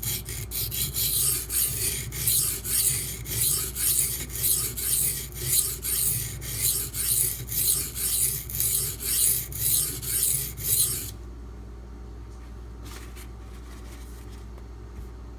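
Steel knife blade being stroked back and forth by hand on a coarse silicon carbide sharpening stone, a rhythmic gritty scraping at about two strokes a second that stops about 11 seconds in. The D2 blade has no edge left, so the coarse stone is cutting a new one.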